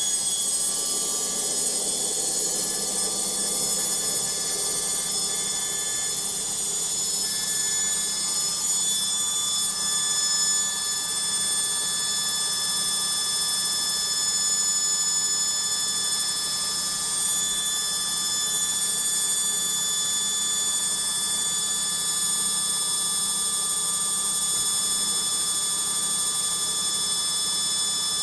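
Logik washing machine on its final spin, the motor and drum running at a steady high speed with a high-pitched whine.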